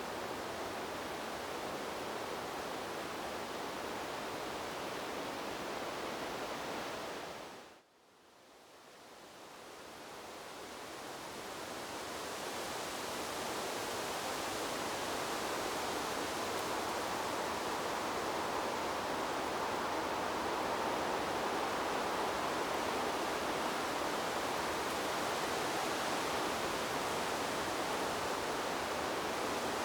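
Steady rushing noise of wind blowing through trees. About eight seconds in it fades away almost to silence, then swells back up over several seconds and holds steady again.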